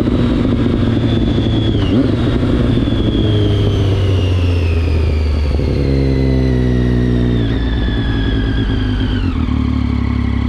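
2011 Triumph Street Triple 675's inline three-cylinder engine running through an SC Project exhaust, heard on board while riding. The engine note sinks slowly, with sudden drops about two seconds in, about seven and a half seconds in, and near the end.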